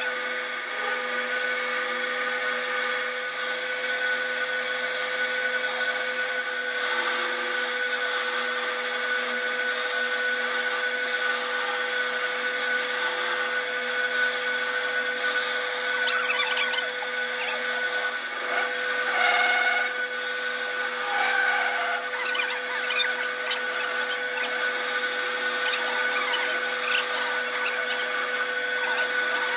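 A powered metalworking machine running steadily with a constant whine, with stretches of irregular scraping and squealing from the work partway through.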